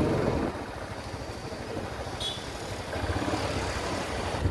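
Royal Enfield Classic 350's single-cylinder engine running on the move, easing off after the first half-second and picking up again near the end. A short high chirp sounds about two seconds in.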